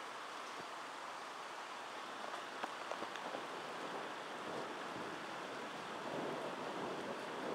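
Steady hiss of rain falling during a thunderstorm, with a few sharp drip ticks about two and a half to three seconds in.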